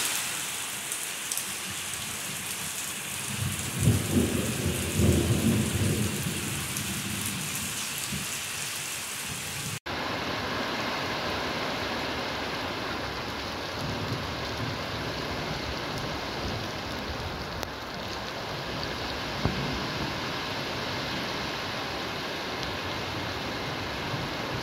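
Heavy rain pouring steadily, with a rumble of thunder about four seconds in. After a cut about ten seconds in, a steady hiss of rain and rushing floodwater goes on.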